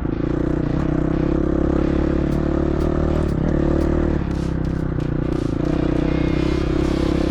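Dirt bike engine running at a steady, moderate throttle over a rough trail, easing off briefly about four seconds in, with scattered clattering and scraping from brush and rocks against the bike.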